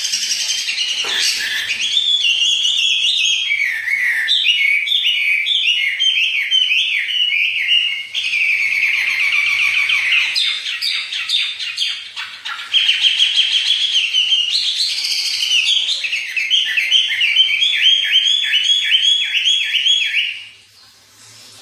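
A songbird singing loud, continuous, varied song, with fast runs of repeated notes and trills; it stops shortly before the end.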